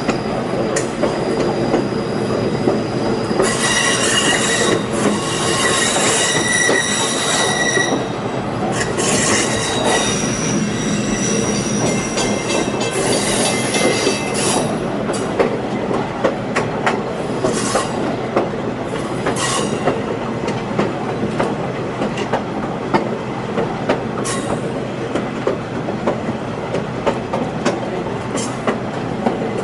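Passenger train rolling on steel rails with a steady rumble and scattered clicks, its wheels squealing at a high pitch through a curve. There are two long stretches of squeal in the first half and a few short ones later.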